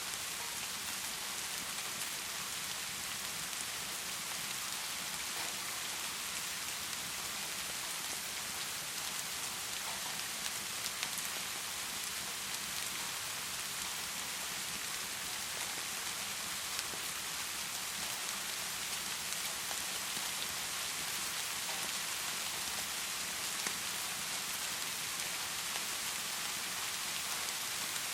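Heavy rain falling steadily, a dense even hiss with a few faint clicks now and then.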